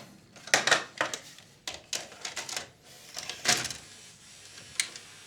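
Irregular sharp plastic clicks and short clattering from hands working the controls and body of a Panasonic NV-G7 VCR under repair. After about four seconds it goes quiet apart from one last click near the end.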